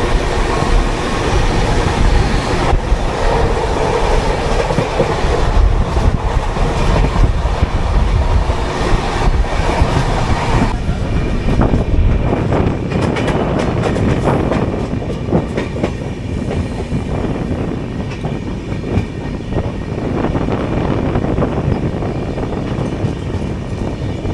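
Indian Railways express train, the Maithili Express, running at speed: a steady rumble and rush of noise with the wheels clattering over the rail joints. About halfway through, the hissing upper part of the noise drops away and separate clicks from the wheels stand out more.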